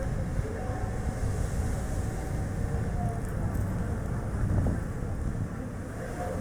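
Strong gusting wind buffeting the microphone over steady road and tyre noise from a small car driving, swelling briefly about four and a half seconds in.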